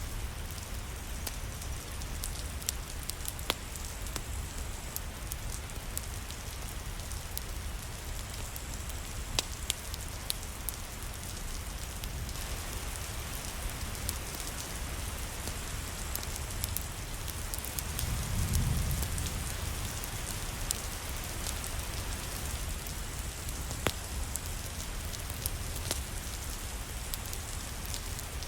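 Steady rain falling, with scattered sharp drips and clicks. A brief low rumble swells up about two-thirds of the way through.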